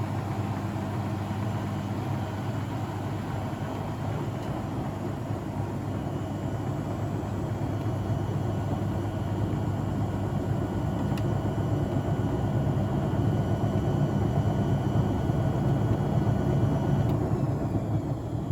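Blomberg WAF 7442 SL washing machine running: its drum motor turns with a steady low rumble and a faint whine, slowly growing louder. About a second and a half before the end the motor winds down, its whine falling in pitch.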